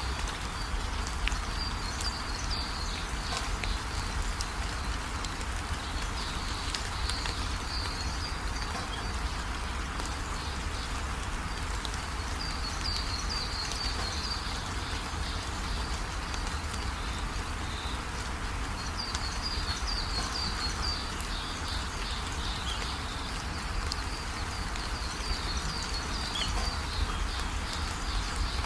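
Steady rain falling, with runs of quick, high chirping calls coming and going several times over it.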